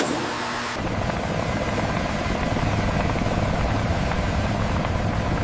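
Mi-8 helicopter with its twin turboshaft engines and main rotor running steadily at ground idle. The sound cuts in suddenly and settles into an even, dense running noise within the first second.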